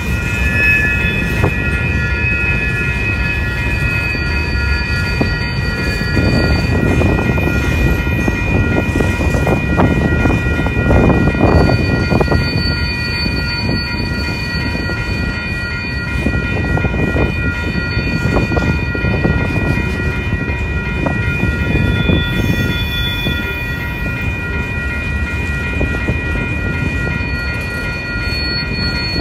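Freight train of boxcars and coil cars rolling through a grade crossing: a steady rumble with wheel clatter, louder for a few seconds near the middle. Above it the grade-crossing bell rings steadily.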